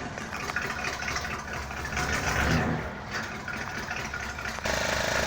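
Cold engine being started after sitting for months: it turns over unevenly, then catches near the end and settles into steady running. It started right up.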